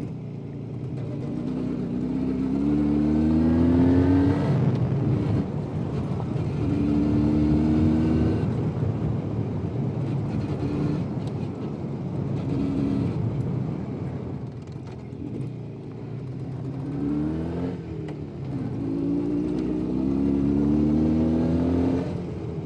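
Jawa 350 type 638 motorcycle's two-stroke twin-cylinder engine under way. It rises in pitch several times as it accelerates and drops back in between.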